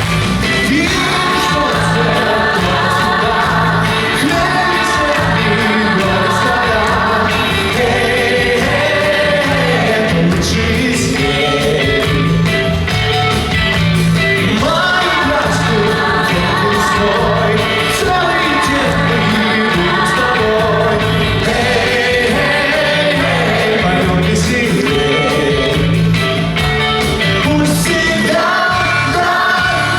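Pop song with a band accompaniment, a steady bass beat and singing voices.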